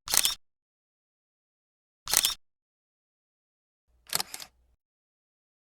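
Three camera shutter clicks about two seconds apart, the last one doubled, with dead silence between them.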